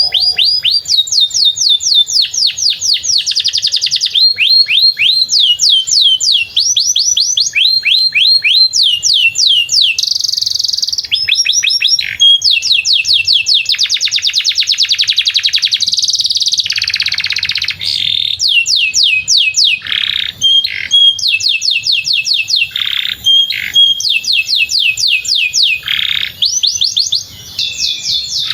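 Domestic canary singing a long, unbroken song: fast trills of evenly repeated falling notes, switching to a new trill every second or two, with some buzzier rolling passages.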